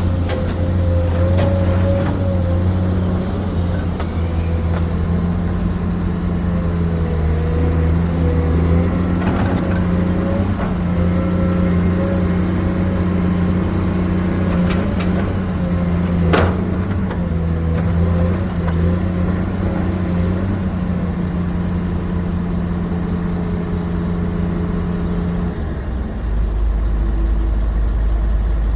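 Excavator engine running steadily while it digs, with a higher wavering whine over the low drone and a sharp knock about halfway through. Near the end the sound drops to a deeper, steadier rumble.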